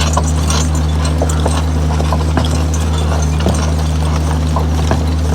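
Team of Belgian draft horses walking while pulling a loaded hay sled: an irregular clopping of shod hooves with harness clinks, several knocks a second. A steady low hum runs underneath.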